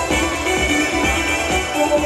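Loud electronic house music from a DJ set, played over a club sound system, with a steady beat.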